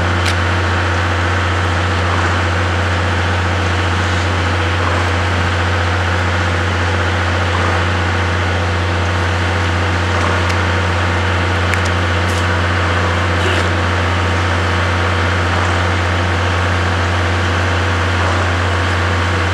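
Steady low machinery hum, unchanging in pitch and level, with a few faint ticks.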